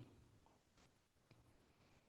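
Near silence: quiet room tone in a pause between spoken sentences.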